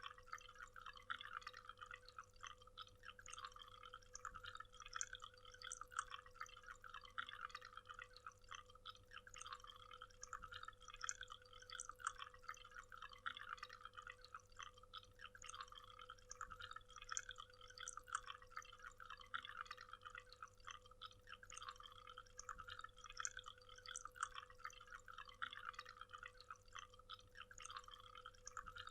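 Waterfall: faint, steady splashing and trickling water with a dense patter of small drips and splashes, over a faint steady hum.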